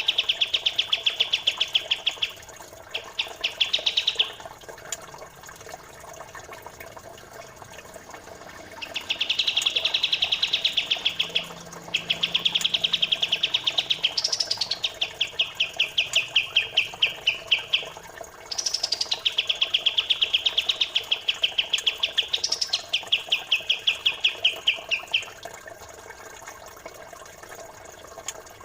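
Recorded songbird training calls: fast, evenly repeated high chirps in trilled phrases of two to four seconds with short pauses between them, over a steady trickle of running water.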